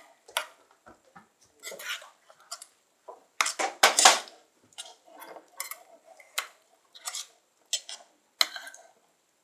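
A utensil scraping and clinking against a container as glue and borax are stirred into slime, in irregular strokes, busiest about three and a half to four seconds in. The mixture is just beginning to set into slime.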